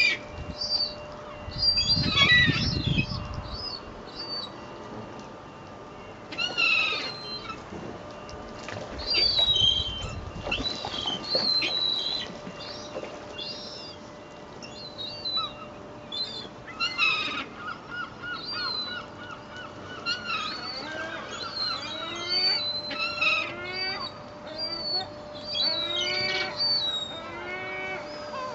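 Seagulls calling over one another, many short squealing cries with a run of quick repeated calls near the end, as a flock competes for thrown bread. Two brief low rumbles, about two and ten seconds in, and a faint steady hum lie beneath.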